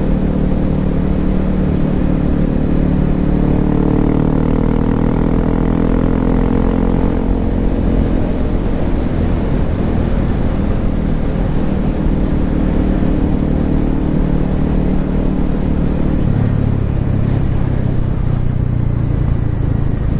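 Honda CRF250L's single-cylinder four-stroke engine, fitted with an FMF Q4 exhaust, running under way with a rush of road noise. The revs rise over the first several seconds and then hold steady. About four seconds before the end the engine note drops lower.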